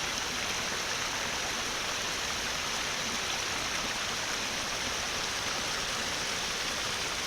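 Rushing creek water: a steady, even rush of flowing water over rocks.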